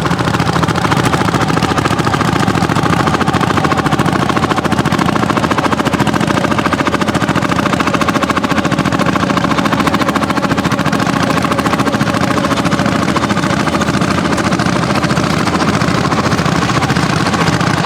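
Landini single-cylinder two-stroke hot-bulb tractor engines running steadily, their exhaust beating in a rapid, even stream of pops.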